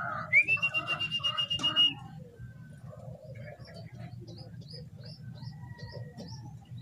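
A loud, high, whistle-like call held for about a second and a half near the start. Small birds then chirp with short, repeated rising notes.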